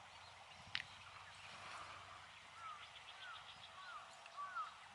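Faint outdoor ambience with bird calls: a series of four short rising-and-falling notes in the second half. A single sharp click comes about a second in.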